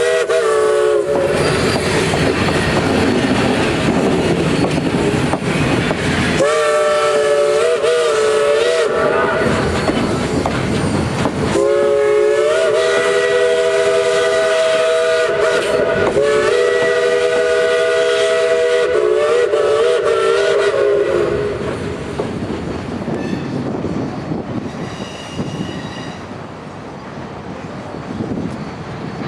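Steam locomotive's three-chime whistle, a B&O 3-chime on 2-8-0 Consolidation #734, sounding a three-note chord. One blast ends about a second in, a shorter one follows, and then a long blast with a brief break partway through. Between the blasts the passing train rumbles and clatters, growing quieter in the last third.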